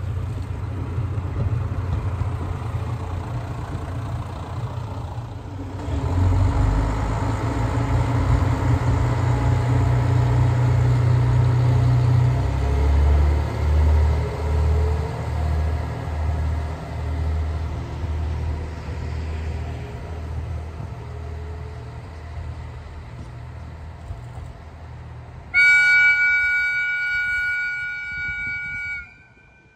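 Diesel railcar's engine revving up as it pulls away, a low throbbing rumble that slowly fades as it recedes. Near the end the train sounds its whistle: one loud, steady chord of a few notes held for about three and a half seconds, then cut off.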